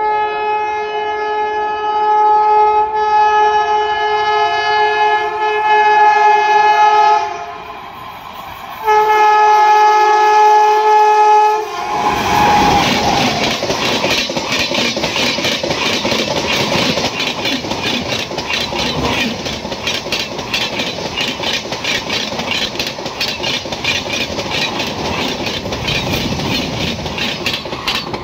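Indian Railways express train hauled by a WAP7 electric locomotive: the locomotive's horn sounds a long chord of about seven seconds, then after a short break a second blast of about three seconds. At about twelve seconds the train rushes past at speed, around 130 km/h, with a loud rush and rapid clickety-clack of wheels over the rail joints that continues as the coaches go by.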